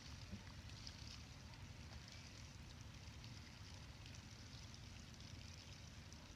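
Near silence: a faint, steady low rumble of light wind on the microphone, with a few faint ticks.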